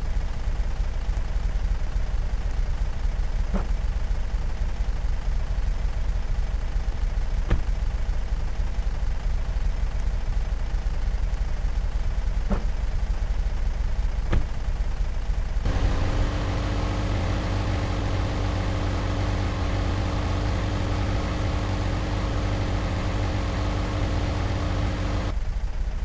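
Steady vehicle engine and road rumble with a few faint clicks. About 16 s in it cuts to a different, steadier drone with a low hum, which cuts off again near the end.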